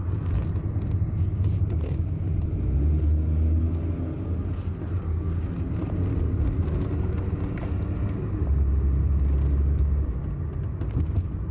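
A car driving along a road: a steady low rumble of engine and tyres that swells louder twice.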